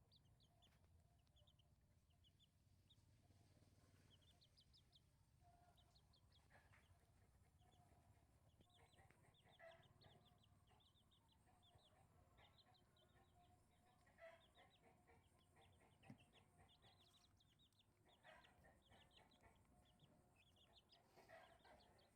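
Faint chicken sounds: runs of short, high peeps repeating throughout, with a few lower clucks.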